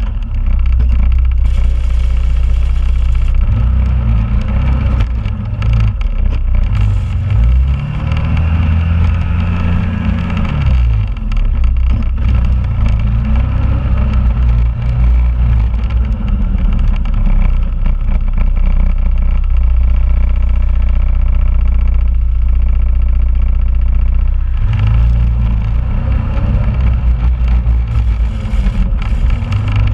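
2001 Honda Rubicon ATV's single-cylinder engine running, its speed rising and falling several times, with a steady stretch in the middle.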